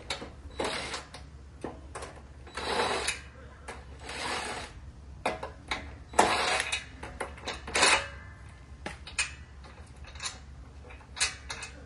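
Hand tools and metal mower-deck parts being handled: irregular clinks, clicks and short scrapes, with a faint steady low hum underneath.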